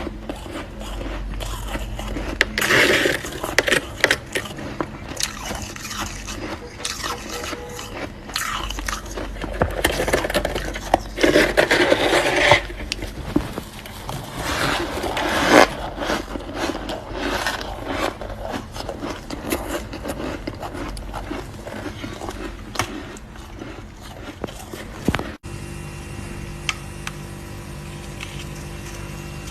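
Frost from a freezer being scraped and bitten, crisp crunches and scrapes coming in uneven clusters. About four seconds before the end it cuts abruptly to a steady low hum.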